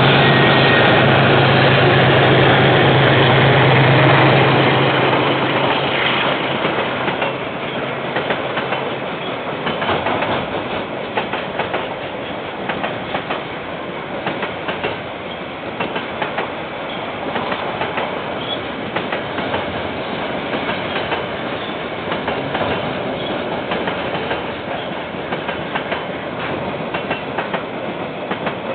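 A KiwiRail train passing. The diesel locomotive's engine drone is loud for the first few seconds and fades about five seconds in, and then a long line of wagons rolls by with a steady clickety-clack of wheels over the rail joints.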